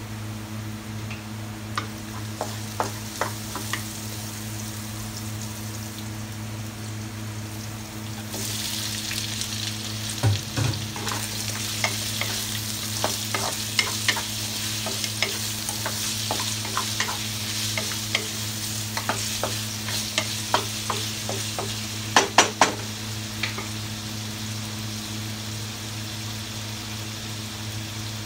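Garlic sizzling in oil in a wok. About eight seconds in, pieces of sea cucumber are added and the sizzle turns much louder and brighter. A wooden spatula then scrapes and taps against the wok as the food is stirred, with a few sharp knocks about two-thirds of the way through, over a steady low hum.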